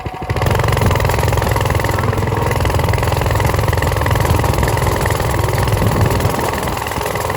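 Motorcycle engine, heard from the rider's chest-mounted phone while riding. The engine gets louder as the throttle opens just after the start, then runs steadily under load, with rushing noise over it.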